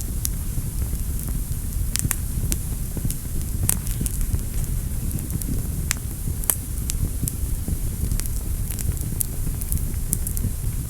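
Wood fire burning in a fireplace, a steady low rumble of flames with frequent sharp crackles and pops at irregular intervals.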